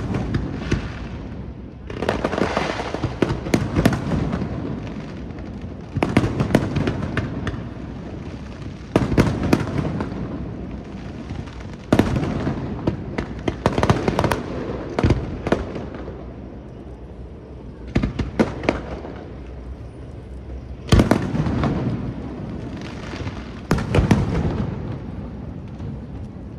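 Aerial firework shells bursting in a display: sharp bangs every two to three seconds, each followed by a spray of smaller crackling reports and a fading tail.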